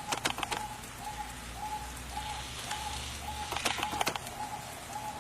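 A bird calling one short, clear note over and over, about twice a second at an even pace, with a few sharp clicks in between.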